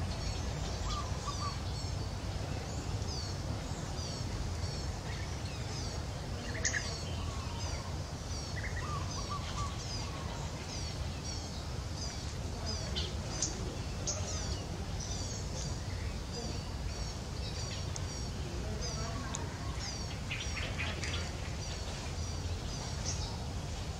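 Wild birds calling: a steady series of short, high chirps repeating about twice a second, with a few lower short calls among them, over a low steady rumble.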